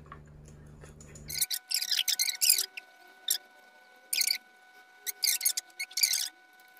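Wet chewing and lip-smacking of a person eating a mouthful of rice and eggplant sambal, in irregular clusters of short, squelchy bursts starting about a second and a half in.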